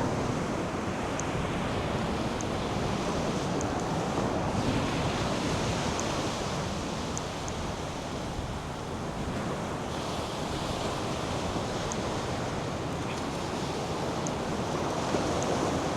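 North Sea surf breaking and washing up the sandy beach in a steady rush that eases slightly midway and swells again, with wind buffeting the microphone.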